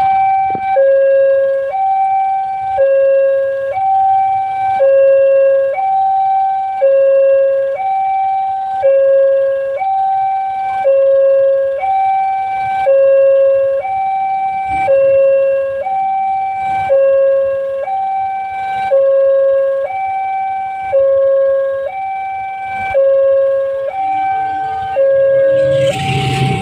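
Railway level-crossing warning alarm sounding a steady two-tone high–low signal, each tone about a second long, repeating without pause. Near the end the rush and rumble of an approaching train comes in over it.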